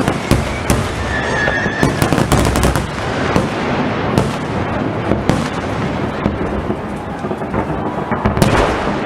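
A display of aerial fireworks: rapid, overlapping bangs and crackles over a continuous rumble, with a brief whistle about a second and a half in.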